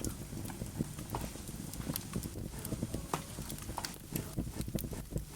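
Wood-burning fire crackling in a fireplace: irregular sharp pops and snaps from the burning logs over a low, steady rumble.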